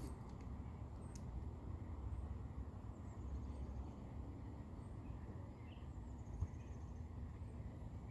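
Outdoor background with a steady low rumble, a single sharp click about a second in, and faint high chirps of insects or birds.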